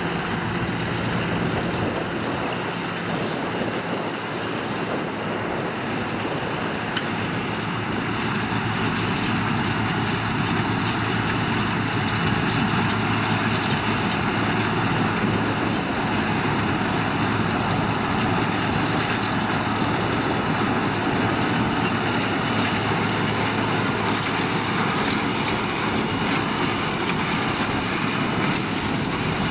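Case IH Puma 215 tractor and Massey Ferguson 2170 baler working in the field: a steady, loud machinery drone with a constant low engine hum.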